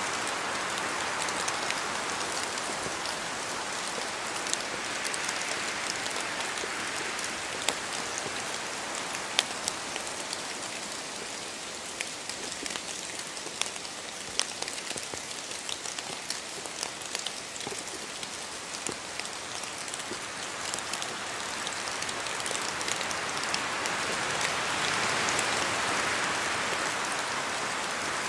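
Steady rain in a forest, with many separate drops ticking as they fall from the trees. A rushing wind swells near the start and again late on.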